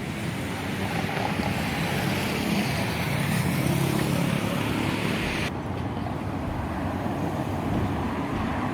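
Abra water taxi's diesel engine running steadily with a low hum that swells a little in the middle, over a hiss of wind and water that drops away suddenly about five and a half seconds in.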